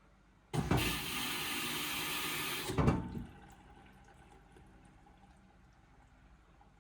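Indesit washing machine's water inlet valve opening and letting water rush in through the detergent drawer, a loud hiss of about two and a half seconds that cuts off suddenly, at the start of the wash cycle's fill.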